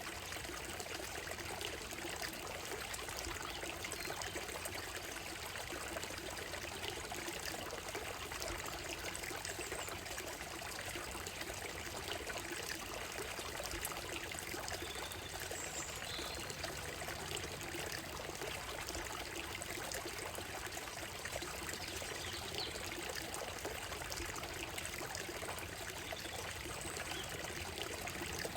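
Shallow stream running steadily over a gravel and stone bed, an even rushing and trickling of water, with a few faint bird chirps about halfway through.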